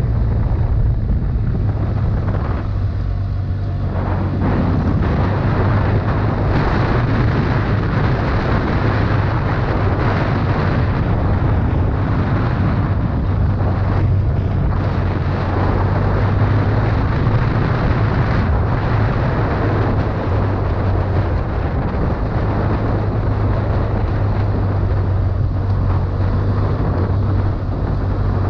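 2011 BMW F800ST's parallel-twin engine running steadily under way, with wind noise rushing over the microphone.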